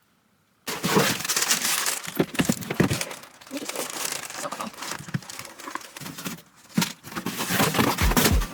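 Plastic packaging crinkling and rustling as it is handled, starting abruptly about a second in. Deep bass beats of a song come in near the end.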